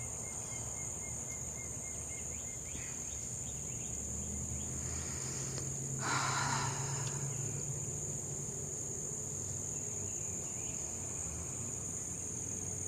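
Steady high-pitched chorus of insects, likely crickets, trilling without a break. A low hum rises in the middle and there is a short noisy rush about six seconds in.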